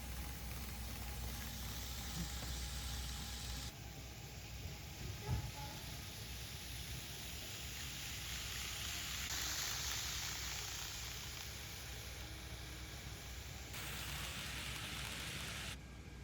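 N scale model train running on layout track: a steady faint rolling hiss that shifts abruptly in tone about four seconds in and again near the end, with one soft thump about five seconds in.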